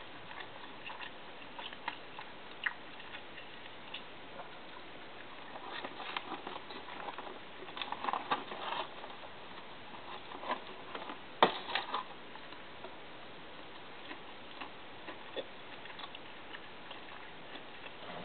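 Eating sounds at a table: scattered small clicks, taps and mouth noises from eating ice cream and chicken tenders. There is a busier stretch about six to nine seconds in and one sharp click about eleven seconds in.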